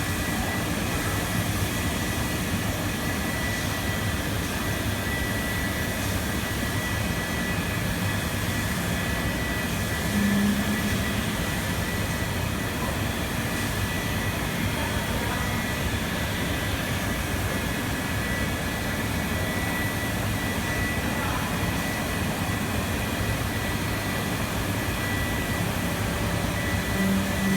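A machine running with a steady drone and a constant high whine, with a short louder hum about ten seconds in and again near the end.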